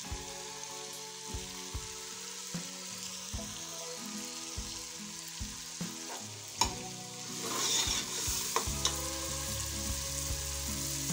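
Tomato-and-spice masala sizzling steadily in oil in an aluminium pot, with a metal ladle clinking and scraping against the pot as it is stirred; one sharp clink about two thirds of the way through. The oil has separated from the masala, the sign that it is fully fried.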